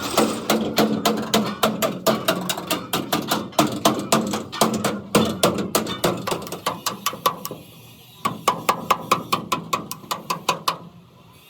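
Rapid hammer blows on metal, about five a second, as damaged truck bodywork is beaten back into shape. There is a short pause about eight seconds in, and the blows stop near the end.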